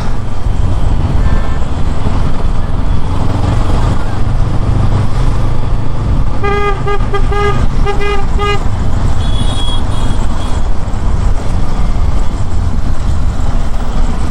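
Motorcycle riding noise in traffic: a loud, steady low rumble of engine and road, with wind on the microphone. About six and a half seconds in, a vehicle horn sounds a rapid string of short honks lasting about two seconds.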